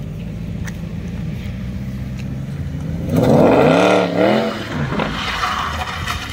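Sports car engine idling, then revved twice in quick succession about three seconds in, its pitch rising and falling with each blip, before settling back to idle.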